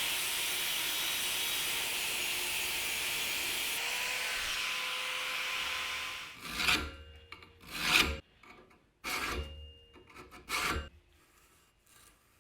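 Wood being worked in a shop. A steady hiss with a faint hum runs for about six seconds and then stops. Several separate rubbing or scraping strokes on wood follow, roughly a second apart.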